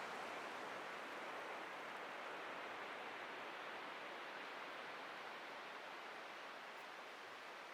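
Atlantic surf washing on a beach: a steady, even rush of breaking waves that eases off slowly.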